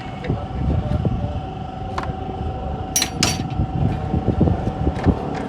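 Toyota XLi engine running with an uneven low rumble and a steady thin whine over it, plus a few sharp clicks near the middle. The engine is being checked for a VVT-i sound problem.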